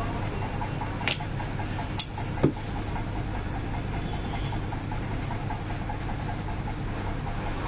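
A steady low mechanical hum, like an engine running, with three sharp clicks in the first two and a half seconds.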